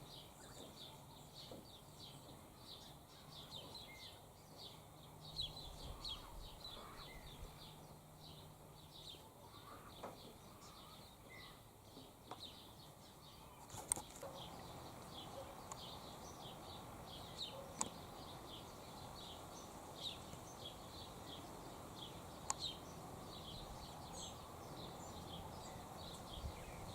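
Faint outdoor ambience of many small birds chirping in quick, repeated high notes, with a few sharp clicks.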